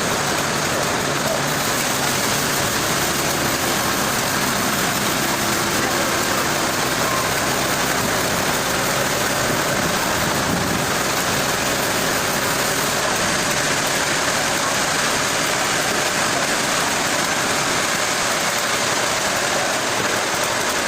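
Heavy engine running steadily under a constant wash of machinery noise, without revving or impacts.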